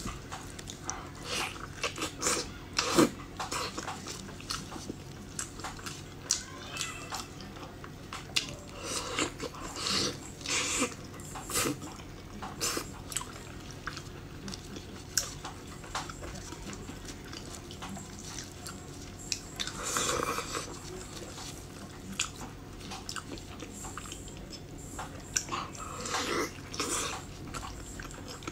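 Close-up eating sounds of spicy chili-oil chicken being bitten, torn and chewed: irregular wet smacks and sharp clicks, with a longer wet chewing stretch about twenty seconds in.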